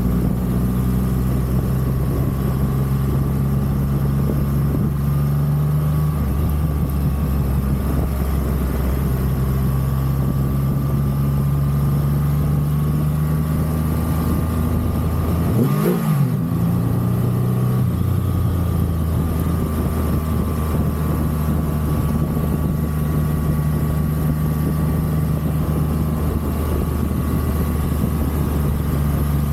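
Triumph Rocket 3 motorcycle's inline three-cylinder engine running steadily at road speed, with wind and road noise. About halfway through, the engine note breaks off and rises briefly, then settles back to its steady running.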